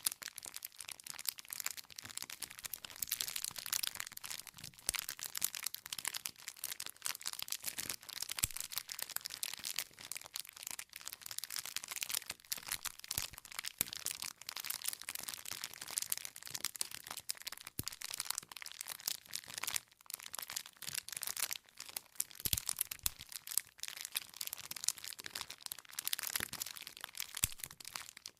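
Wood campfire burning with dense, continuous crackling and popping of the logs over a soft hiss of flame.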